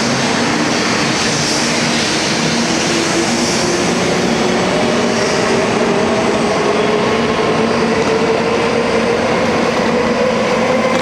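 Electric train running, its rail and running noise steady, with a motor whine that rises steadily in pitch as the train gathers speed.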